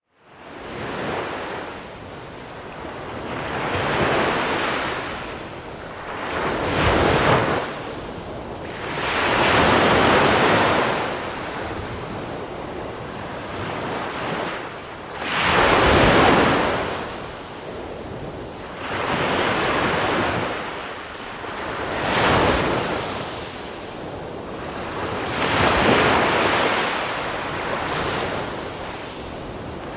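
Small waves breaking and washing over a pebble beach, one swell every few seconds, each rising and falling away with a hiss of water through the pebbles. Light wind on the microphone underneath.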